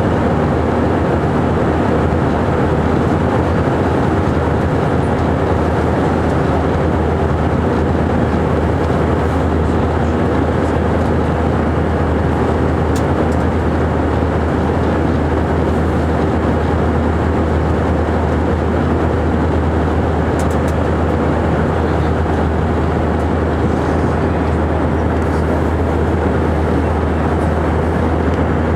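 Airbus A319 cabin noise: a steady, loud rush of jet engines and airflow with a low hum and a steady mid-pitched tone, heard from inside the passenger cabin.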